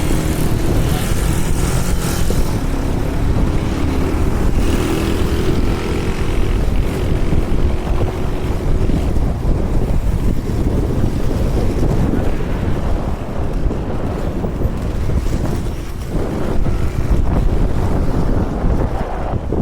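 Wind buffeting the microphone at speed over a steady low rumble of skateboard wheels rolling on asphalt during a fast downhill run.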